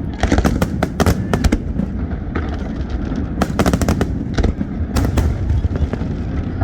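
Aerial fireworks display bursting: rapid sharp cracks, several in quick clusters, over a continuous low rumble of booms.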